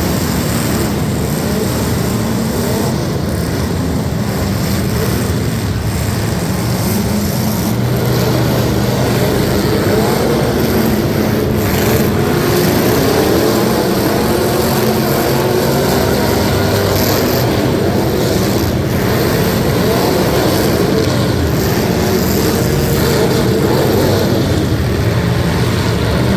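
Competition truck engines running hard, their pitch rising and falling as they rev.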